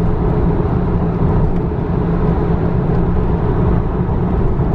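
Car engine running steadily at an even pitch, with road and wind noise.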